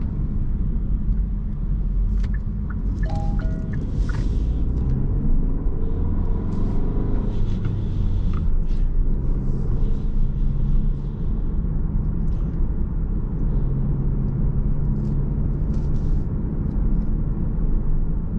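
Car interior while driving slowly in city traffic: steady engine and tyre rumble with some gentle changes in engine pitch. A brief two-note tone sounds about three seconds in.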